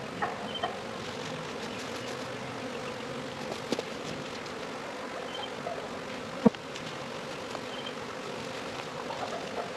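Honeybee swarm buzzing steadily as a continuous hum, with a few faint clicks and one sharp knock about six and a half seconds in.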